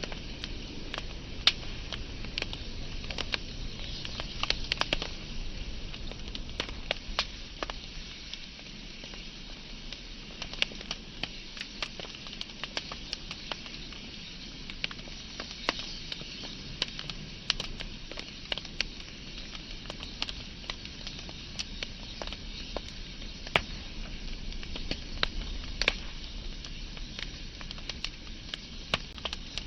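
Wood fire burning, with a steady hiss and frequent sharp, irregular crackles and pops.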